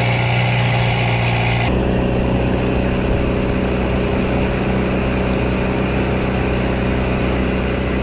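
An engine running steadily at a low, even speed; its note changes slightly about two seconds in.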